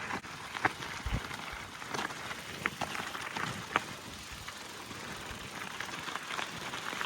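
Gravel bike rolling downhill on a rocky, bumpy dirt road: a steady rush of tyre noise with scattered sharp clicks and ticks as the wheels go over stones.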